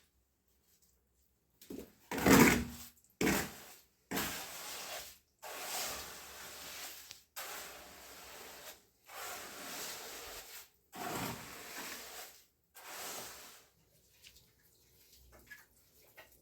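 A hand tool makes about eight scraping, swishing strokes, roughly one a second, through wet cement. The first strokes are the loudest, and the sound trails off into faint ticks near the end.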